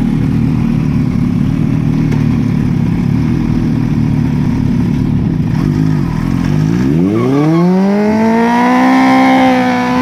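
Motocross bike engine running at low revs with a steady rumble, then revving up steeply about seven seconds in and holding at high revs.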